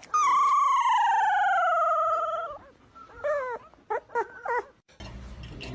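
A dog howls in one long wavering call that slides down in pitch, then gives several short whining yelps. Near the end there is a clatter of dishes and cutlery.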